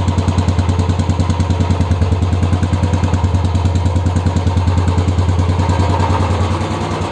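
Royal Enfield Classic 350 single-cylinder engine idling through a BS4 stock silencer fitted with a rubber damper, giving an even thump of about eight exhaust pulses a second. The thump softens slightly near the end.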